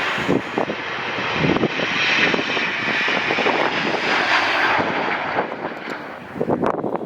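Aircraft engines of a passing airliner, a steady rushing noise that swells about two seconds in and fades toward the end, with wind buffeting the microphone in gusts.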